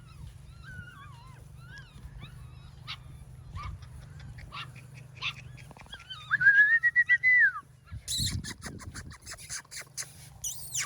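Golden Retriever puppies whimpering and squeaking in short wavering cries, with one longer, louder whine about six seconds in. Near the end comes a fast run of sharp clicks or rattles.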